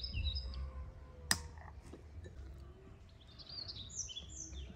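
Small birds chirping in short bursts near the start and again near the end, over a steady low rumble, with a single sharp click about a second in.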